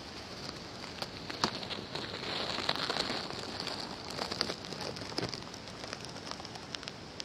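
Patter of rain with scattered sharp drop clicks, heaviest in the middle few seconds.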